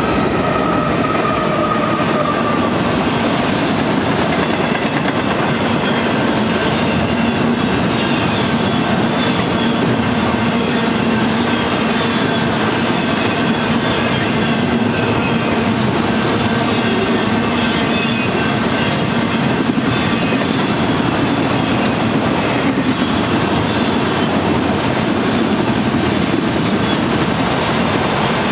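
Auto-rack freight train rolling past at close range: a steady, loud rumble and clatter of the cars' steel wheels on the rails.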